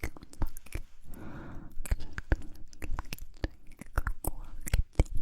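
Close-miked ASMR mouth sounds: quick, irregular wet clicks and smacks of lips and tongue, with a short breathy whisper-like sound about a second in.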